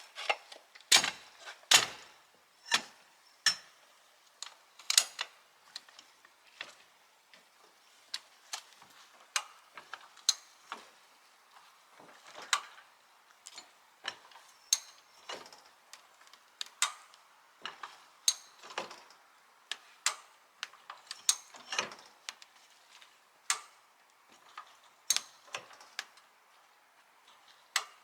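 High-lift jack being worked: a long series of sharp mechanical clicks and clacks, one or two a second at uneven spacing, as the handle is pumped to jack up a heavy load.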